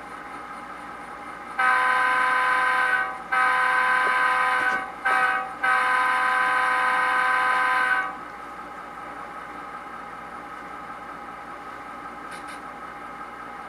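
Tsunami 2 sound decoder in a model GP38-2 diesel locomotive playing its simulated air horn in the grade-crossing pattern: long, long, short, long. A steady quieter background sound runs under the horn and on after it.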